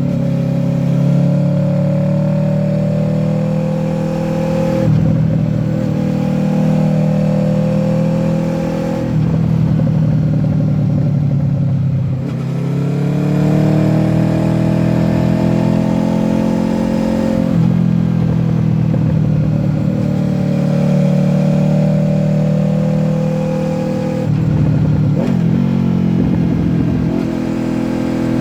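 Honda VFR800F V4 VTEC engine through an SC-Project exhaust, pulling hard up through the gears. The revs climb and hold, with short breaks at gear changes. About halfway through they fall away sharply, as for a corner, then climb again.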